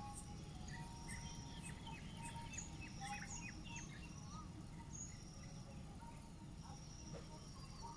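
Birds chirping and calling: many quick falling chirps with a few higher held whistles scattered through, over steady low background noise.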